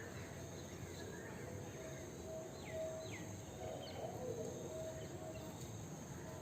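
Outdoor bird and insect ambience: a steady high insect drone with scattered short bird calls, including two quick falling whistles a little before halfway through.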